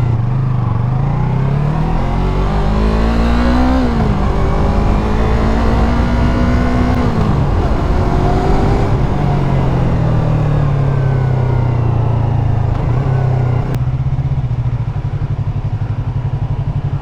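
Yamaha MT-03 motorcycle engine accelerating through the gears: the pitch rises, drops at about four seconds on an upshift, climbs again until about seven seconds, then settles to a steady, lower cruising note. There is a short click about fourteen seconds in.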